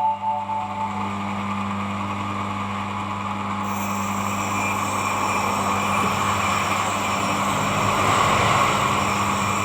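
Electric sharpening machine running steadily, its motor humming under the grainy hiss of a blade resting on the abrasive surface without being pressed. A sharper high hiss joins in a little over a third of the way through.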